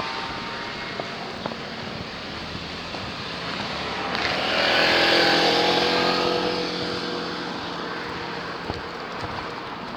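A motor vehicle drives past over steady street traffic noise. It grows louder to a peak about halfway through, and its engine tone drops in pitch as it passes, then fades.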